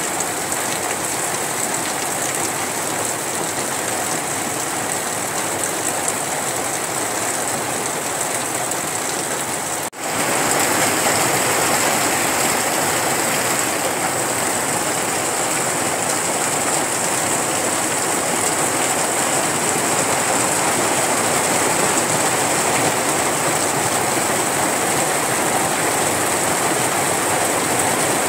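Heavy rain falling steadily, an even hiss. There is a brief break about ten seconds in, after which the rain is a little louder.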